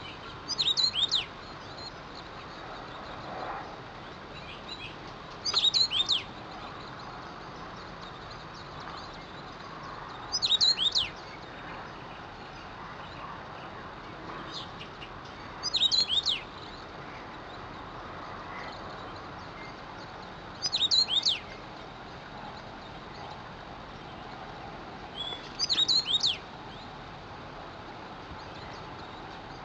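Common rosefinch singing: a short song phrase of about half a second, repeated six times about five seconds apart, over a faint steady background hiss.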